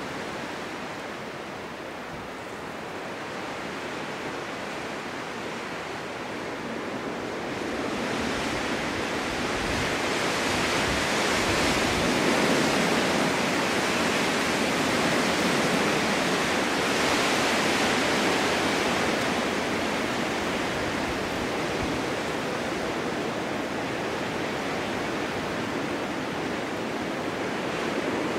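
Snowstorm wind blowing in a steady rush that swells into a stronger gust about a third of the way in, holds, then slowly eases.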